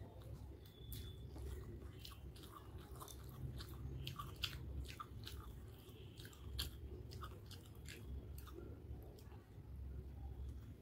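A person chewing a mouthful of chicken hakka noodles, with many quick, irregular wet mouth clicks and smacks.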